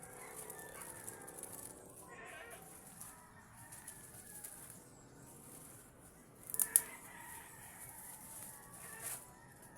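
Bird calls over a steady high hiss, with a short loud burst about two-thirds of the way through.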